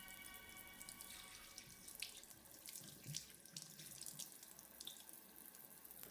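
Water running from a tap, with small splashes and drips. A steady multi-tone hum fades out about a second in.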